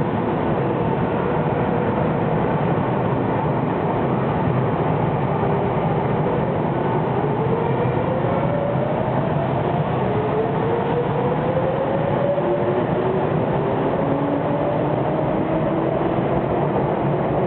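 Sotetsu 7000 series electric train moving through the underground station, a steady rumble of wheels on rail. Two rising whines climb slowly through the second half as the train picks up speed, typical of the gear whine from its right-angle cardan drive.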